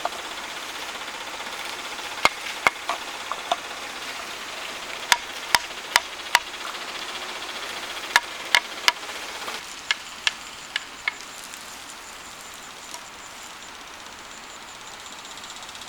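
Sharp knocks of a tool striking wood, in short runs of two to four blows with pauses between, which stop about eleven seconds in. A faint high, steady whine comes in just before the knocking ends.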